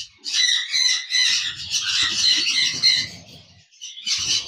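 A roomful of conures (sun, pineapple and yellow-sided conures) calling and squawking together in a dense, high-pitched chatter that thins out briefly near the end.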